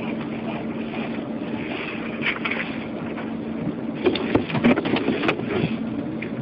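Steady road, wind and engine noise of a moving police car, heard inside the cabin, with a faint steady hum. A few short clicks or knocks come about four to five seconds in.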